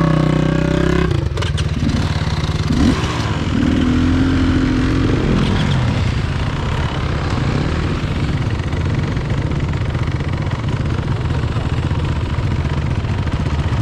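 Enduro trail motorcycle engine running under way, its pitch rising and falling as the throttle opens and closes, with a few sharp knocks about a second and a half in.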